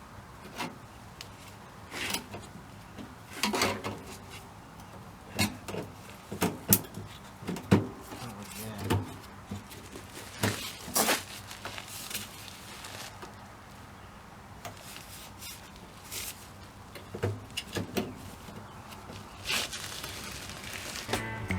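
Irregular clicks, knocks and light clanks, some ringing briefly, as sheet metal and hand tools are handled in a metal shop.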